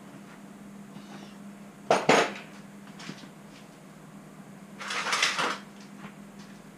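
Metal engine parts clinking and clattering as they are handled during engine reassembly: a short sharp clatter about two seconds in and a longer rattle about five seconds in, over a faint steady hum.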